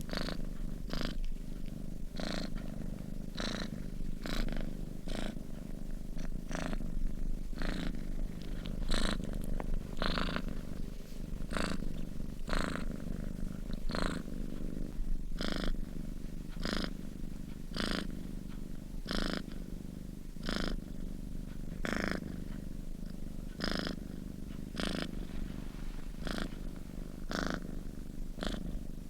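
Sleeping domestic cat purring steadily: a continuous low rumble with a short breathy hiss pulsing a little more than once a second.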